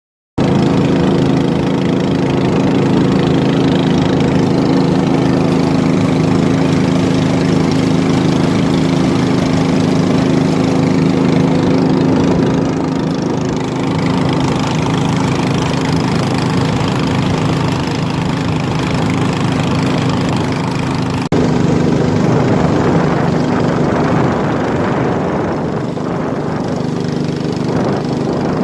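Small boat engine running steadily at an even speed, with a brief break about two-thirds of the way through.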